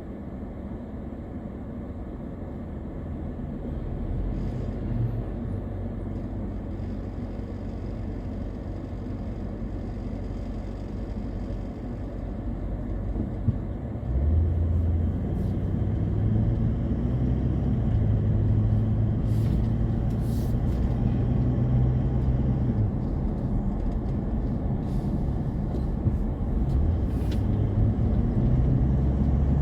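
Car driving on the road: steady engine and road rumble, with the engine's low tones shifting. It gets clearly louder about halfway through.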